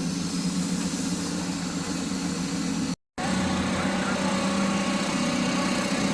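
Car engine running steadily at idle; the sound drops out completely for a moment about three seconds in, then the engine is heard running again.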